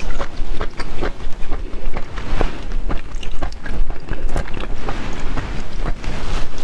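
Close-miked wet chewing and lip smacking on raw sweet shrimp and Arctic surf clam: a dense, uneven run of small clicks and squelches, with the light crackle of a shrimp shell being peeled by hand.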